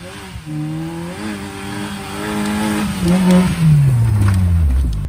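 Suzuki Jimny's engine revving as it drives through snow, getting louder and higher about halfway through as it passes close, then its pitch falling steadily over the last second and a half as it draws away.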